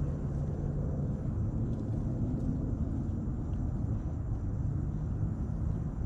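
A steady low motor rumble with a constant hum.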